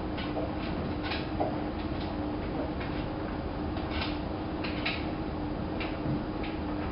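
Hanseatic HWM814A3D front-loading washing machine (a Vestel build) running a wash, its drum turning the laundry. There is a steady motor hum and rumble, with irregular short swishes and knocks every half second to a second as the wet load drops.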